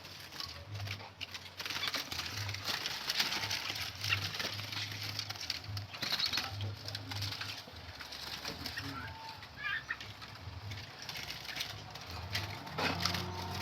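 Caged birds at a bird seller's stall: short chirps and calls among many small clicks and rustles of wings and cage movement, over a pulsing low hum.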